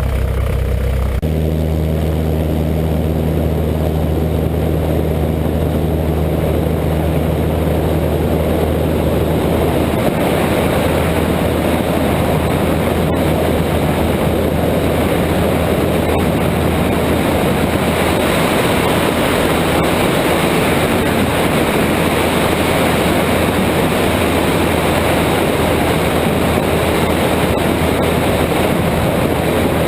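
Cessna 172's piston engine and propeller running steadily. About a second in the engine note steps up, and from about ten seconds in the steady drone turns into a denser rushing noise.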